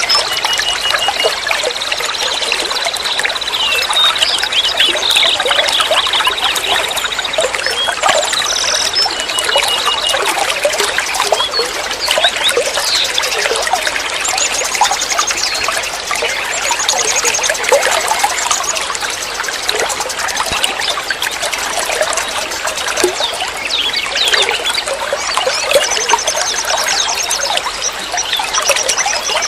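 Water trickling and babbling as it flows, a steady splashy gurgle without pause.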